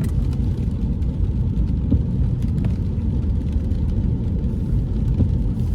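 Steady low rumble of a car being driven: engine and tyre noise on a wet road, with a few faint ticks.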